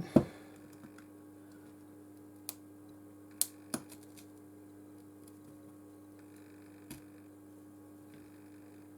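A few sharp clicks and taps of small repair tools against a smartphone's frame and screen: a loud one right at the start, a handful more over the next seconds. A steady low hum runs underneath.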